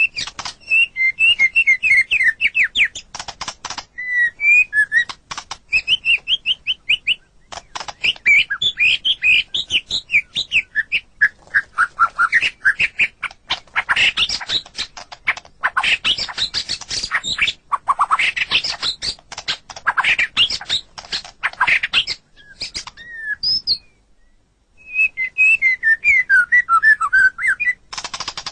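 White-rumped shama singing a varied song: quick whistled phrases interleaved with dense, rapid clicking rattles, pausing briefly about 24 seconds in before a fresh run of whistles.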